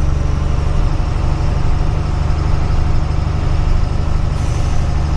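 Diesel truck engine running steadily with a deep, even hum.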